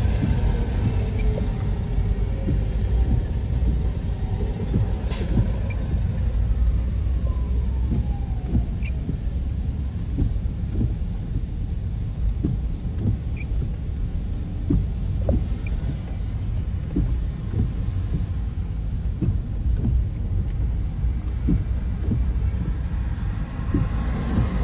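Steady low rumble of street traffic, with one vehicle passing about six to nine seconds in, its pitch falling as it goes by.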